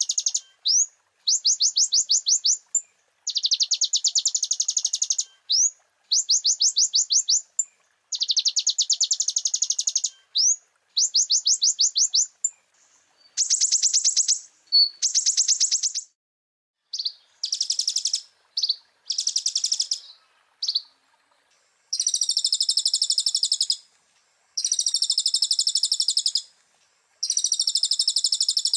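Konin (kolibri ninja) sunbird singing: rapid, high trilled phrases of about one to two seconds each, repeated with short pauses. From about two-thirds of the way in, the phrases turn longer and denser.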